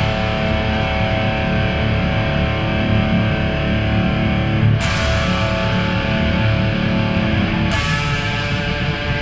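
Guitar playing a slow heavy rock part: chords left to ring over a thick low end, with new chords struck about five seconds in and again near eight seconds.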